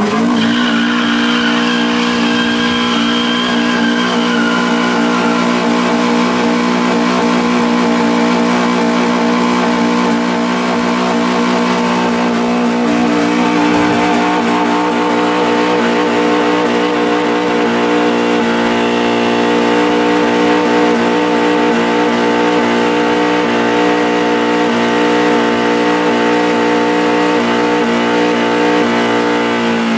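Honda Civic wagon's four-cylinder engine held at high revs through a long burnout, the front tyres spinning on wet pavement. The revs stay steady, rising slightly about two-thirds of the way through, and fall away at the very end.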